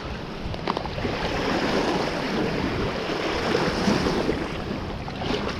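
Steady rush of fast-flowing floodwater, with a few faint clicks and rustles.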